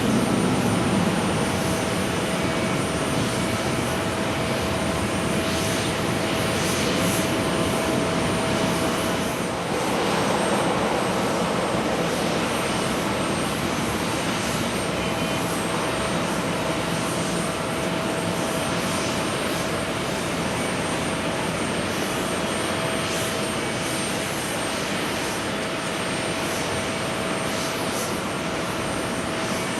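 Jet airliner engines running steadily at an airport: a continuous roar with a thin steady whine, which briefly shifts about ten seconds in.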